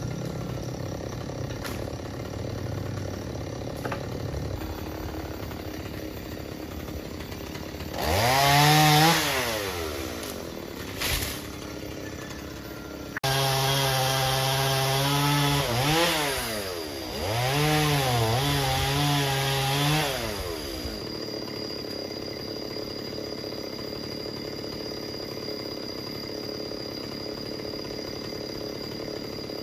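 Chainsaw engine revved up and back down once, then a few seconds later running loud for about eight seconds with its pitch swinging up and down several times before it stops.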